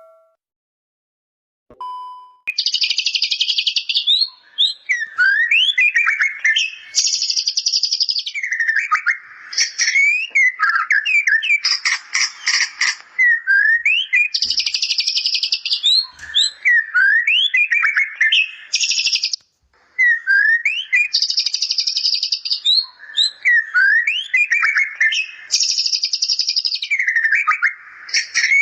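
White-rumped shama singing a continuous, rapid song: quick slurred whistled notes alternate with dense, high chattering trills in the style of the bar-winged prinia (ciblek). The song starts about two and a half seconds in.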